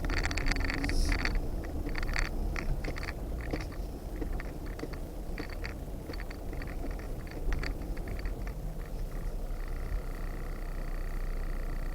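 Footsteps crunching on a rocky dirt trail over a steady low rumble. About three-quarters of the way through, a steady high buzzing drone of several tones starts up, like insects calling.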